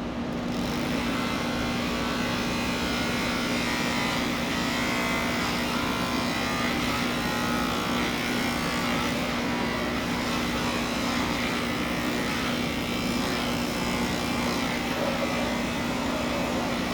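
Electric pet grooming clippers running steadily with a constant hum, smoothing out clipper lines in a cat's coat.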